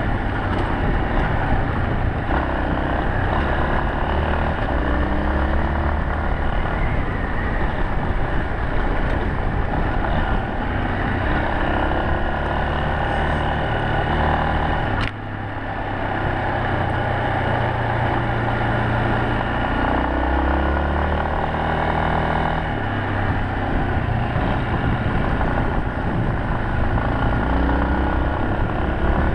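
Yamaha Serow 250's air-cooled single-cylinder four-stroke engine running under way, its pitch climbing and dropping back again and again as the rider accelerates and shifts gears, over a steady rush of wind and road noise. A single sharp click with a brief dip in the engine sound comes about halfway through.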